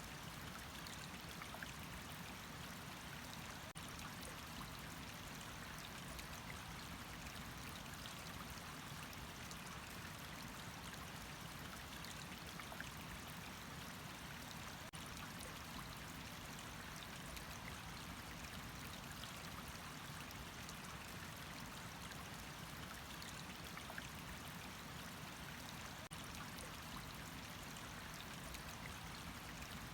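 Water running steadily, an even, unbroken rush with a few faint ticks and drips in it.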